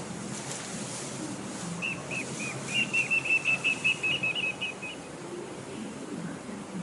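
A bird calling: a run of about twenty short, high whistled notes, a few spaced out at first, then quickening into a rapid trill that stops suddenly, over a steady background hiss.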